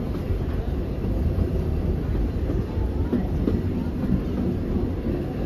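Steam train's open-sided passenger car rolling along the track, heard from aboard: a steady low rumble and rattle of the wheels and car body.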